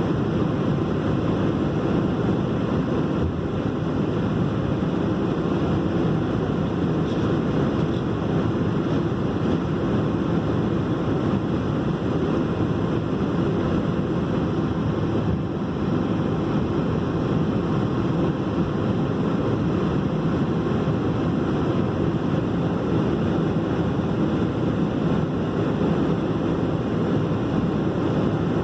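Airliner cabin noise: jet engines and rushing air heard from inside the cabin as a steady, loud, low rumble.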